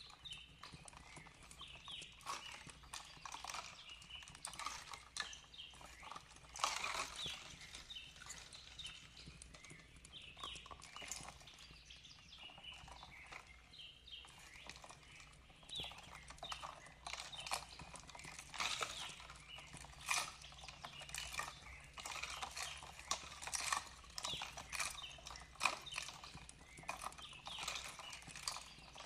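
Fireplace crackling: irregular snaps and pops, some sharper than others, over a faint steady low hum.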